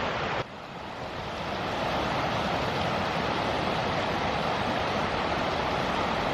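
Steady rushing of falling water from a mountain waterfall. It drops away about half a second in and swells back up over the next second.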